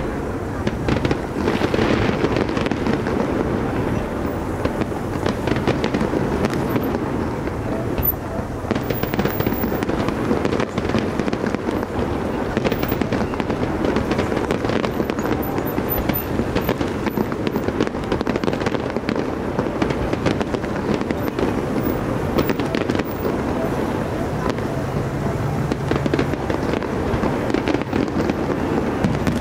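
Fireworks going off in a steady stream of pops and crackling bursts, with no pauses.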